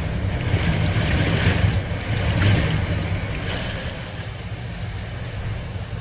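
Typhoon wind blowing hard, with a heavy low rumble from the wind buffeting the microphone and a rushing hiss that swells in gusts about one and two and a half seconds in.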